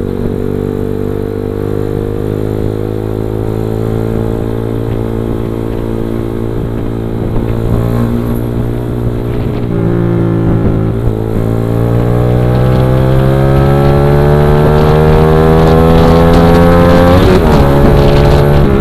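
Motorcycle engine accelerating under hard throttle, its pitch climbing steadily, dropping at a gear change about ten seconds in and again near the end, and getting louder as it goes.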